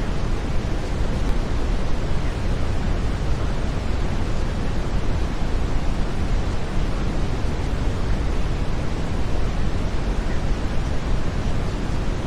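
Steady brown noise: an even, deep rushing hiss, strongest in the bass and thinning toward the treble, unchanging throughout.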